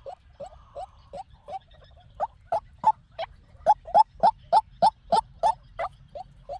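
White-breasted waterhen calling: a long series of short, croaking notes, each rising slightly in pitch, about three a second, growing louder in the second half and easing off near the end.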